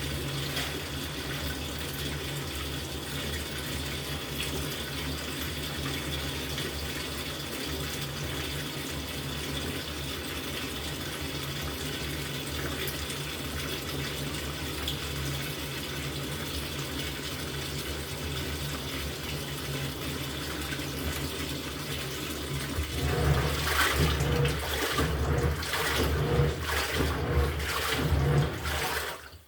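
LG top-loading washing machine filling its tub with a steady rush of water. About 23 seconds in, the pulsator starts churning and the water sloshes in louder, uneven surges.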